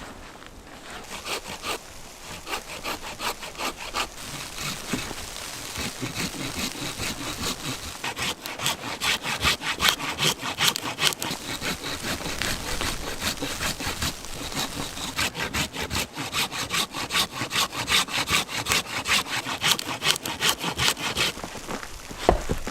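A hand saw cutting wood in quick, steady back-and-forth strokes, starting about a second in and stopping shortly before the end.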